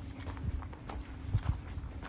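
Footsteps of a person walking: a few irregular low thuds.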